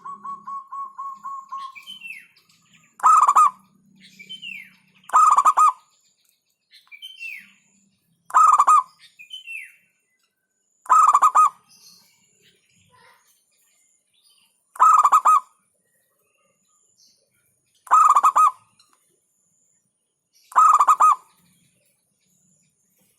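Zebra dove (perkutut) cooing: seven loud, short phrases repeated every two to four seconds. Faint, quick falling chirps sound between the first few phrases.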